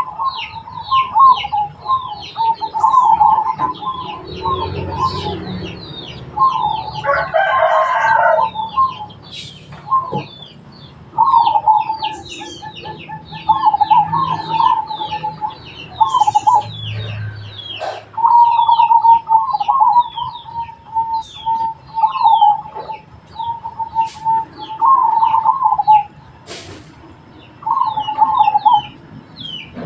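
Zebra doves (perkutut) cooing in repeated trilled phrases, one after another, with rapid high chirping from smaller birds running underneath. A rooster crows once about seven to nine seconds in.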